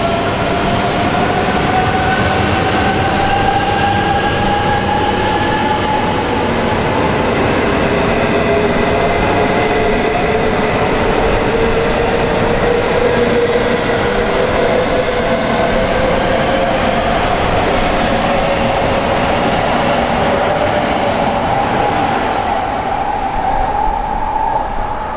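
E3 series Shinkansen train, coupled to E2 series cars, pulling out of a station and gathering speed: a steady loud rush of wheels and running gear with electric motor whines that rise slowly in pitch as it accelerates. The sound fades near the end as the last car passes.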